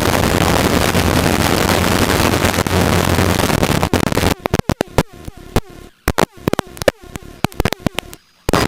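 Helicopter cabin noise, steady with a low hum. About four seconds in it cuts out to quiet broken by irregular clicks and crackles.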